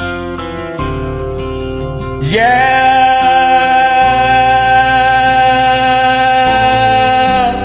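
Country backing track with guitar, over which a singer comes in about two seconds in with one long held note that stops just before the end.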